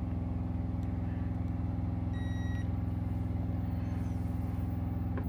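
Steady low idle of a semi truck's diesel engine heard inside the cab, with a short electronic beep about two seconds in.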